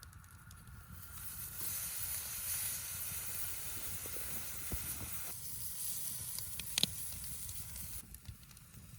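New York strip steak sizzling on a hot grill grate over a campfire. The hiss builds about a second in, carries a few sharp pops, and eases off near the end.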